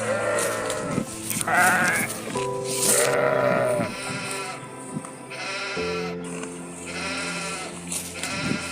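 Sheep bleating again and again, each call a wavering cry of up to about a second, over background music with sustained tones.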